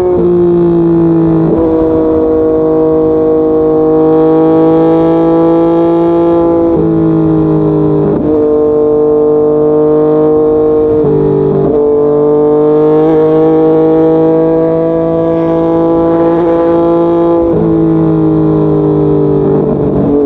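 Yamaha MT-09's inline-three engine running on the move, its note holding fairly steady and then shifting pitch abruptly several times.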